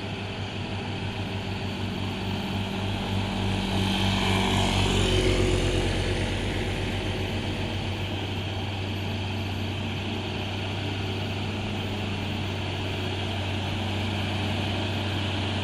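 Heavy truck diesel engine labouring up a steep incline in low gear, a steady drone with a low pulsing beat that swells as it passes about four to six seconds in, then settles into a steady running sound.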